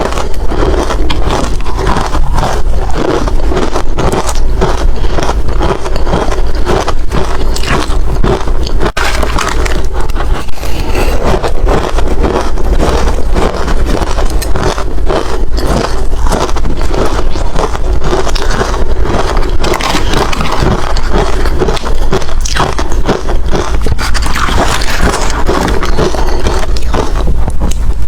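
Hard ice being crunched between the teeth, close to the microphone: a dense, unbroken run of sharp cracks and grinding crunches.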